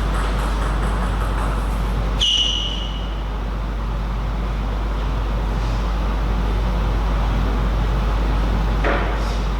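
Steady low background hum of a table tennis hall. About two seconds in there is a sharp knock with a short high ring, and near the end a single click.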